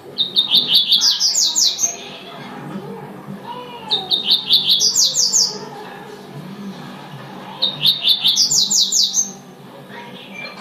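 Double-collared seedeater (coleiro) singing its tui-tui song: three phrases of rapid repeated high notes that climb in pitch, each about two seconds long, with pauses between them.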